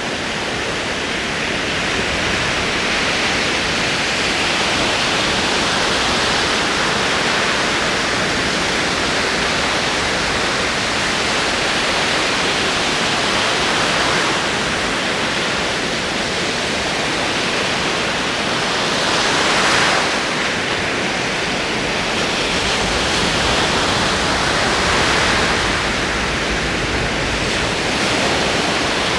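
Ocean waves rolling in, a continuous wash of surf that swells and ebbs gently, with one swell louder about twenty seconds in.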